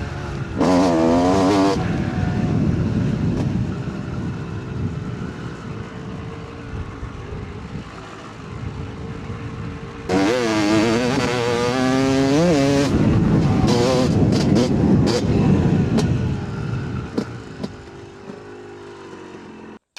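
Yamaha YZ 250 two-stroke dirt bike engine echoing in the trees, revving up hard twice, about a second in and again around the middle, between stretches of steady running. Near the end it fades away.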